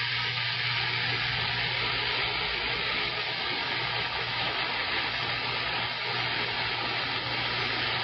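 CB radio receiver on the 11-metre band putting out a steady rush of static with a low hum underneath, loud and unchanging, as an open channel between transmissions.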